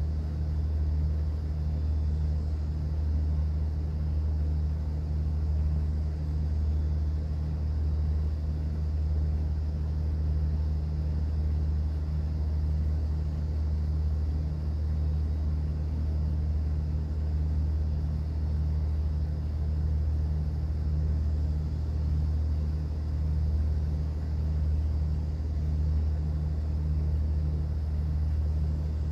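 Cruise boat's engine running, a steady low drone that does not change.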